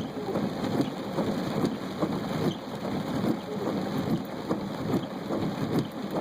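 Heavy rain pattering on a car, heard from inside the cabin: a dense, uneven patter of many small drops.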